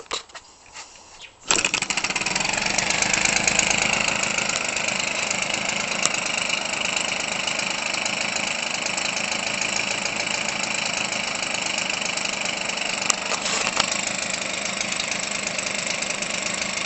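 Weed Eater Featherlite 25cc two-stroke engine, converted for RC airplane use and swinging an 18x6 propeller, catching about a second and a half in and then running steadily. A few sharp clicks come before it catches.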